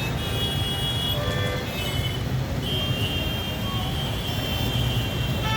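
Jammed city traffic: engines running in a steady low rumble while vehicle horns sound, one held for about a second near the start and a longer one through the middle.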